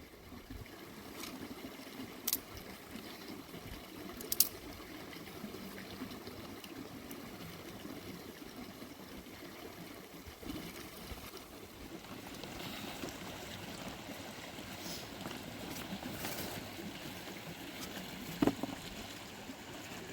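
Steady trickling of running water, with a few sharp clicks or knocks about two and four seconds in and once near the end.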